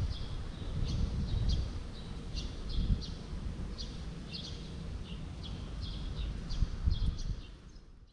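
Small birds chirping, many short high calls repeating irregularly, over a low, uneven outdoor rumble; the sound fades out near the end.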